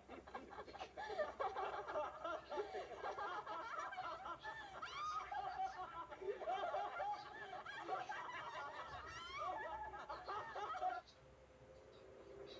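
People laughing and giggling, several voices overlapping, cutting off abruptly about eleven seconds in.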